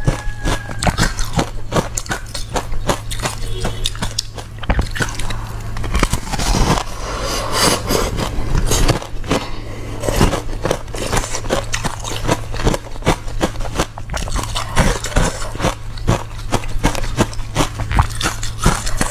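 Ice being bitten and chewed close to the microphone: a rapid, continuous run of crunches and cracks, several a second, with a denser patch of crushing in the middle.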